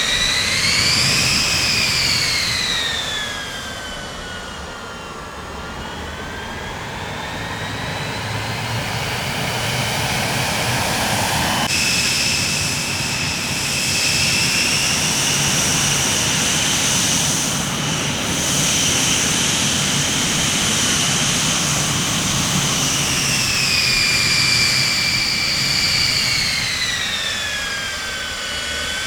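Jet aircraft engines running, a high turbine whine rising and falling in pitch over a steady rumble. About twelve seconds in the sound changes abruptly, as at a splice between recordings.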